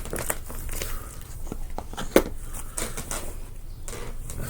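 Scattered small clicks and light rustling, with one sharper click about two seconds in.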